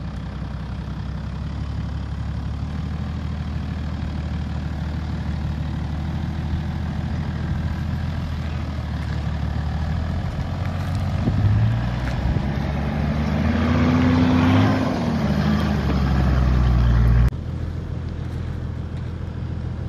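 Four-wheel-drive vehicle's engine running steadily, then revving up from about eleven seconds in, its pitch rising and falling back over several seconds and getting louder, before the sound cuts off suddenly near the end.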